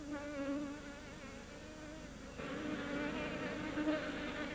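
A swarm of honeybees buzzing: a steady, wavering hum of many wings, louder from about halfway through.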